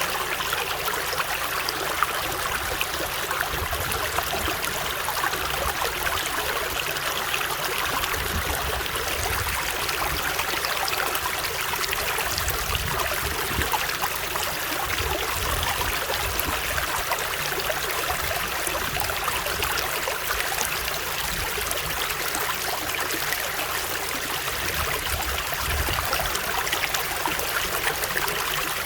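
Running water of a stream, a steady rushing with fine trickling and splashing detail, and low rumbles that come and go underneath.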